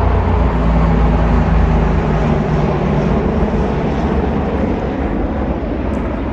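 Loud, steady low rumble with a hiss over it, a continuous outdoor roar with no clear events, easing off slightly in the second half.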